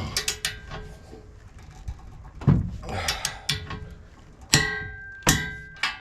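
Click-type torque wrench and socket working on the hitch rail bolts: a series of sharp metallic clicks and clanks, some ringing briefly. The loudest come about two and a half, four and a half and five and a quarter seconds in.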